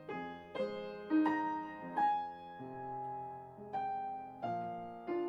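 Soft background piano music, single notes and chords struck every half second or so and left to ring.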